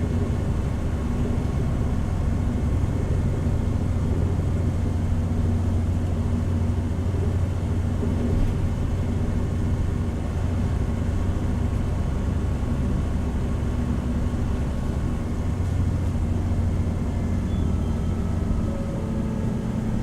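Hino Rainbow HR city bus heard from inside the cabin while under way: a steady diesel drone with road noise.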